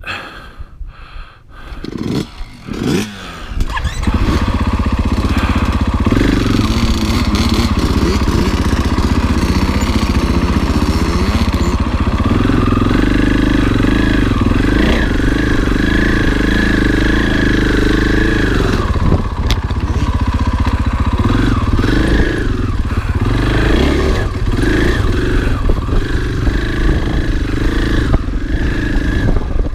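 Husqvarna FE 501 enduro motorcycle's single-cylinder four-stroke engine: a few seconds of clattering, then the engine comes in loud about four seconds in and runs, revving up and down at times.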